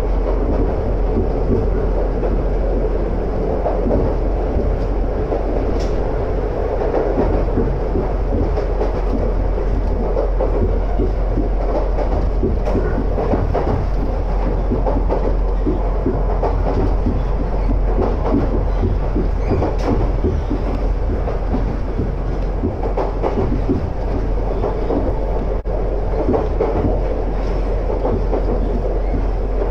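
Converted ex-Tokyu train car running at speed, heard from inside: a steady rumble of wheels on rail, with frequent short clacks over the track.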